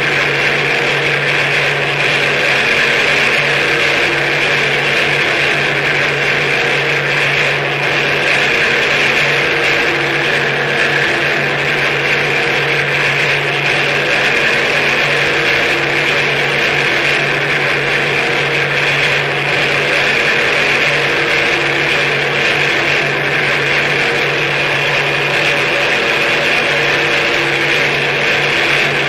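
Harsh noise music: a loud, unbroken wall of distorted noise over a steady low drone, with a strong hiss riding on top, its level hardly changing.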